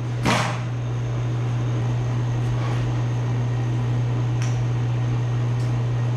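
A steady low mechanical hum, with a short burst of hissing noise about a third of a second in.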